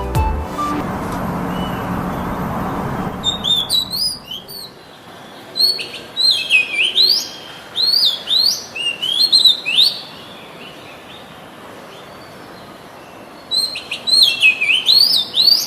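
A songbird singing in quick high whistled notes that sweep up and down, in two bouts with a pause between them. A steady hiss runs under the first few seconds.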